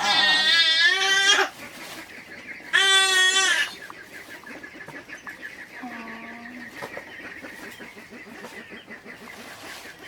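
Farm animal calls: a loud, wavering call at the start and another about three seconds in, then a shorter, flatter call about six seconds in.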